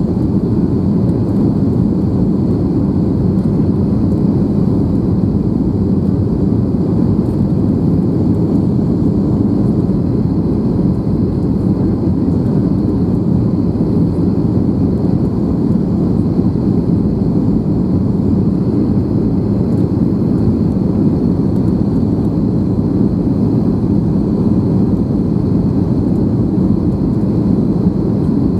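Steady in-flight cabin noise of an Airbus A321: a deep, even rumble of the engines and the air streaming past the fuselage, with a faint high steady whine above it.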